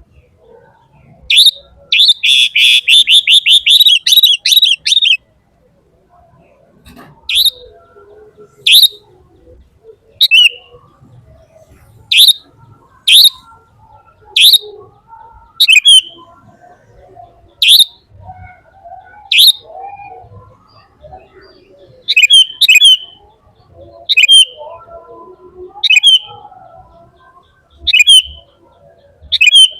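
A bird chirping loudly: a fast run of rapid chirps about a second in, then single sharp chirps every second or two.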